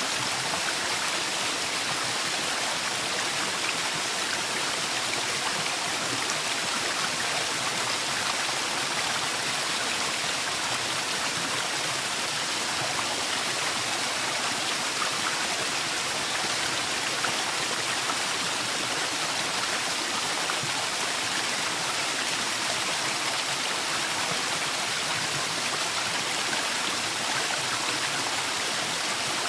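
Waterfall in a forest: water falling and rushing in a steady, even hiss with no breaks.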